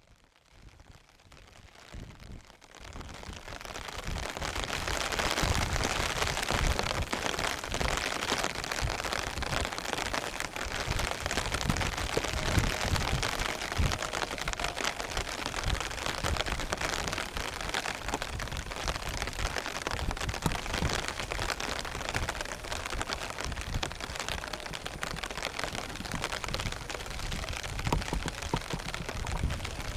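Strong wind buffeting the microphone in irregular low gusts over a steady hiss of falling rain. It fades in over the first few seconds.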